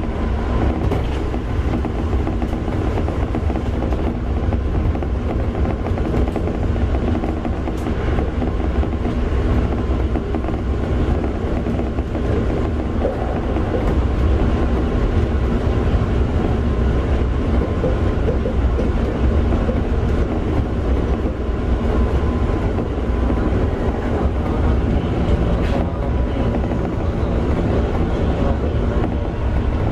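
Toei 5300 series commuter train with Mitsubishi GTO-VVVF traction, heard from inside the car while running between stations: a steady rumble of wheels on rail with a faint steady whine.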